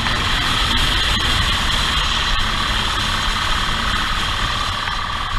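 Vehicle engine running steadily at idle: a constant low rumble with a steady high-pitched hum over it.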